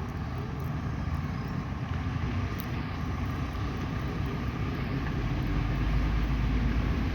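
Steady motor-vehicle engine rumble, with the low rumble swelling about five and a half seconds in.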